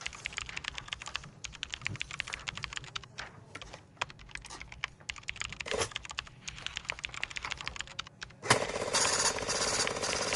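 Fast typing on a computer keyboard: a dense, irregular patter of key clicks with short pauses. About eight and a half seconds in, a louder steady rushing noise cuts in over the typing and is the loudest sound to the end.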